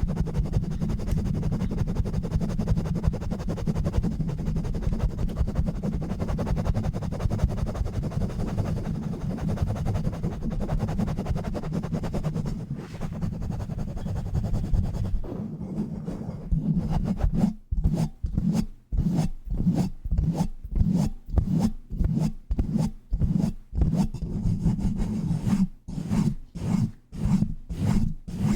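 Fast, aggressive rubbing directly on a bare microphone with no foam cover or filter, a dense, low-heavy rubbing noise. About 17 seconds in it breaks into separate rhythmic strokes, about two a second, quickening near the end.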